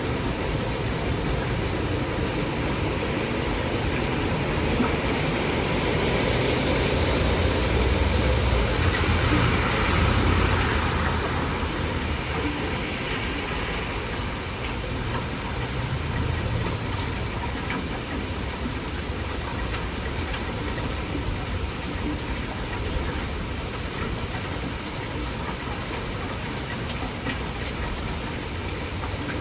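Heavy, steady downpour of rain, swelling louder for a few seconds about a third of the way through.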